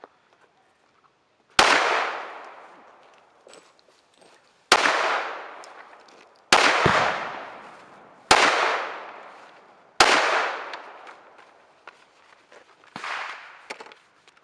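Five single gunshots fired at a slow, deliberate pace, one to three seconds apart, each followed by a long fading echo. A fainter shot comes near the end.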